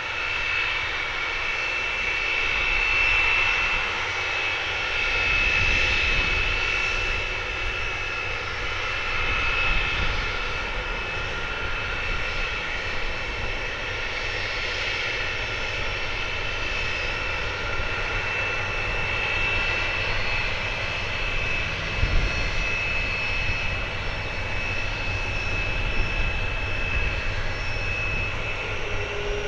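Boeing 747-400F jet engines running steadily: a continuous jet noise with a steady high-pitched whine over a low rumble.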